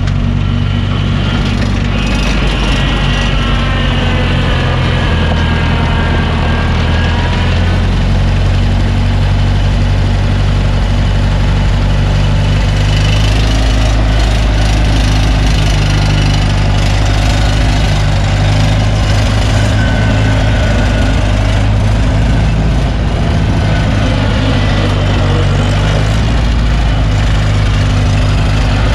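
Gasoline engine of a New Holland L775 skid steer idling steadily.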